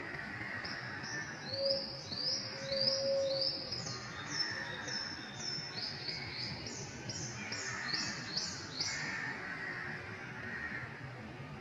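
A bird singing a long run of short, high, upward-slurred notes, about two a second, that stops about two seconds before the end.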